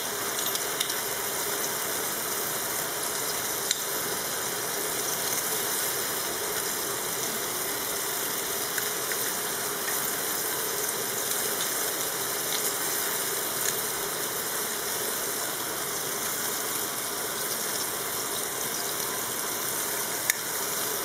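Chicken, onion and tomato sizzling steadily in olive oil in a stainless steel pot, with a few faint clicks.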